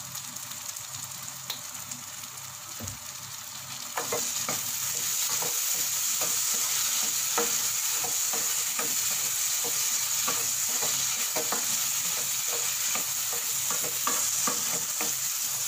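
Chilli chicken and onions frying in a nonstick kadai, sizzling while a wooden spatula stirs and scrapes through it. The sizzle grows louder about four seconds in.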